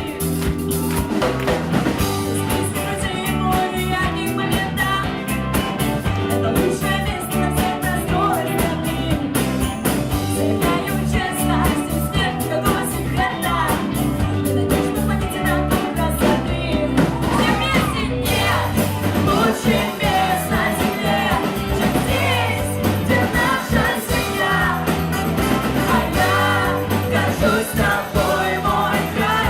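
A rock band playing live with a singer over drums and bass.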